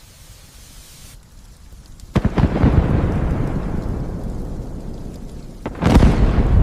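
Thunderclap over light rain: a faint steady rain hiss, then about two seconds in a sudden loud crack that rolls on as a low rumble, fading over about three seconds. Near the end a second loud clap breaks in and cuts off suddenly.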